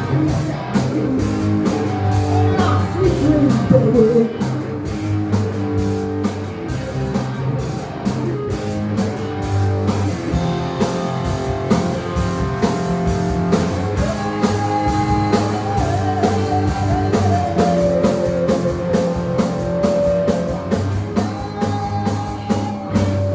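Rock band playing live: guitar over bass and a steady drum beat.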